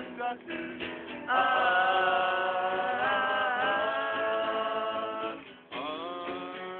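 Men singing along to an acoustic guitar. About a second in, the voices hold one long note for roughly four seconds; it breaks off, and another held note starts near the end.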